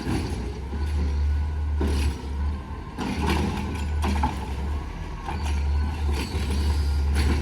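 Garbage truck engine running steadily, with repeated metal clanks and rattles over it.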